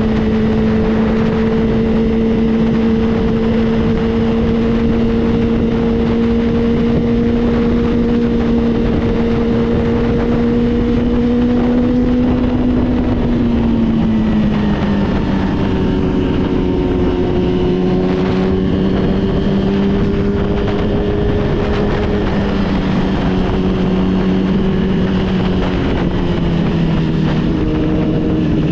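Motorcycle engine running at a steady cruise with wind rushing past, its pitch holding and then dropping about halfway through as the rider eases off. Other motorcycle engines at different pitches join in the second half.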